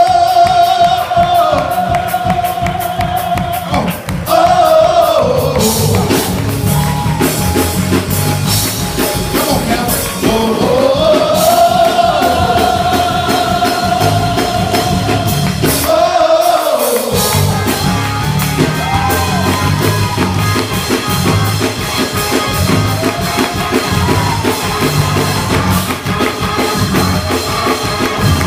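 Live church music: a drum kit keeps a steady beat while a voice sings long held notes, each gliding up into pitch, holding and falling away.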